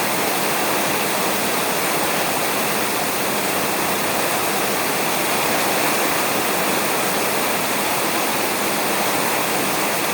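Steady heavy rain falling on a roof: an even, unbroken hiss with no thunder.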